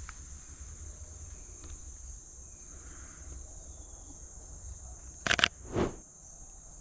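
Steady high-pitched drone of rainforest insects. About five seconds in, two sharp clicks come close together, followed by a duller thump.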